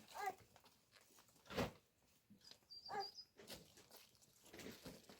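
Two short, faint animal cries about three seconds apart, with a single knock between them.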